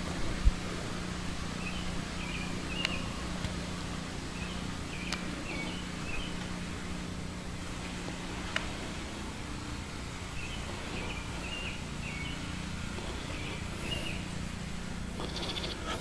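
A small bird chirping in two short bouts over a steady low hum, with a few faint clicks.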